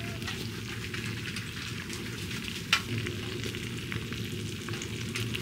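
Beef short ribs sizzling in melting butter: a steady crackling hiss, with one sharp pop about two and a half seconds in.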